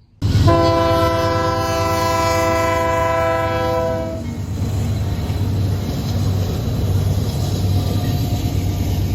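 A train horn sounds one long blast of several notes held together for about four seconds. After it comes the steady low running noise of a moving train.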